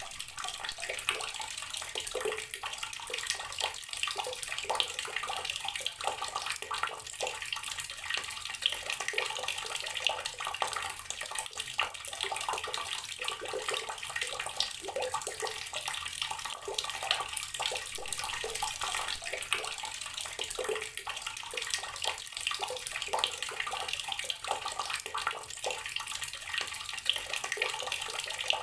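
Water running steadily from a tap and splashing into a basin or tub below, a continuous gurgling stream with many small splashes.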